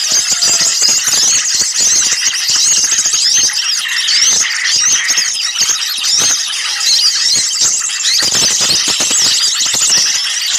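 Dense, agitated chorus of many small birds calling at once: rapid overlapping high chirps, squeaks and trills with no pause, as played for a small-bird lure recording.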